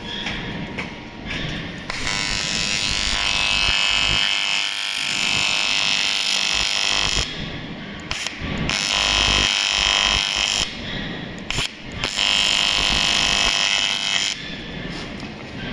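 AC TIG welding arc on aluminium, a loud steady buzz, struck in several long runs that cut out briefly between them.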